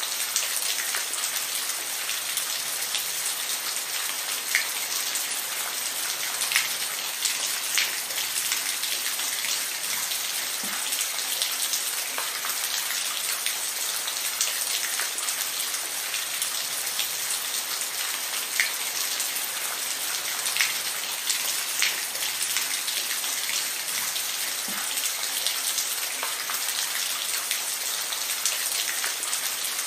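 Steady rain falling, a dense hiss with scattered individual drops ticking on a surface.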